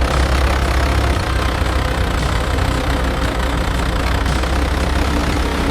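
Tractor engine running steadily, a low, even drone with no change in pitch.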